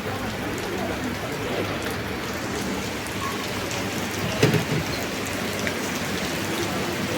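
Rain falling steadily, an even hiss of drops. One brief, louder knock stands out a little past halfway through.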